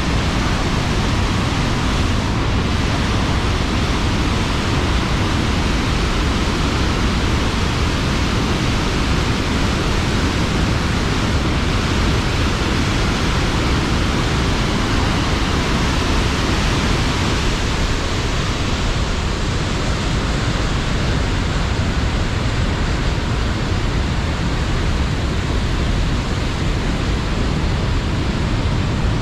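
Steady, loud rushing roar of the large Tännforsen waterfall, a continuous wash of falling water with no let-up.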